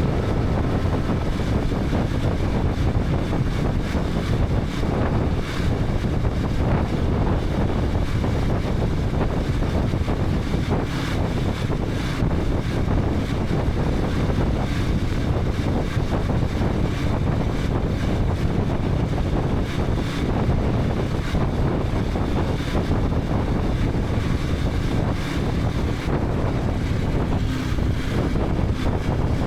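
KTM 250 Adventure's single-cylinder engine running steadily under way, mixed with wind buffeting the helmet camera's microphone.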